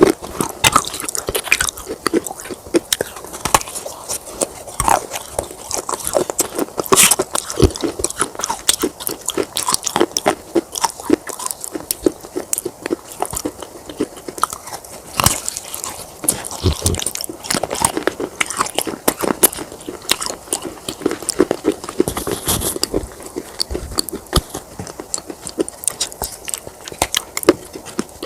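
Baked clay pot pieces crunching, a dense, irregular run of sharp cracks and crumbles that carries on throughout.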